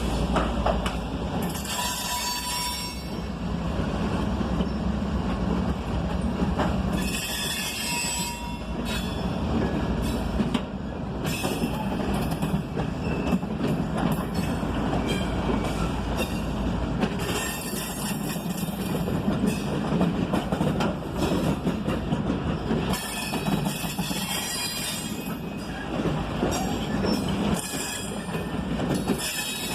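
Loaded side-dump ballast cars of a freight train rolling past with a steady rumble of steel wheels on rail, and the wheels squealing in short bursts every few seconds.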